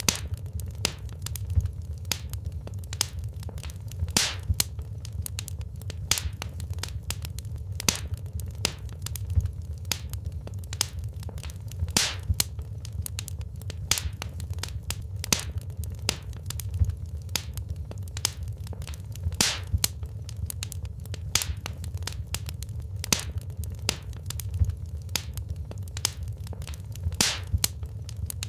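Wood fire burning in a fireplace, crackling with irregular sharp pops and snaps of burning logs over a steady low rumble of the flames.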